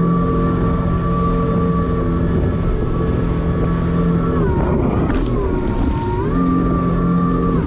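Jet ski engine running steadily at speed. About halfway through, the revs drop and the pitch falls for a couple of seconds, with a rush of noise, then climbs back. The pitch dips again right at the end.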